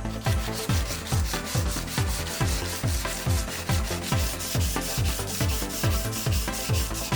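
Electronic background music with a steady kick drum about twice a second, over a rubbing, scrubbing sound of a metal grill grate being polished by hand.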